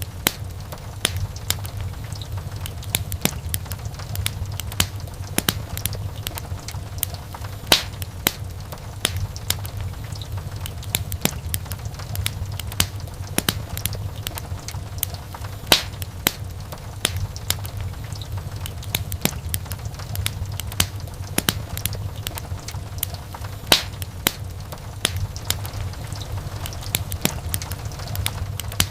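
Wood fire crackling in a fireplace: frequent sharp pops and snaps, a few louder ones, over a steady low rumble.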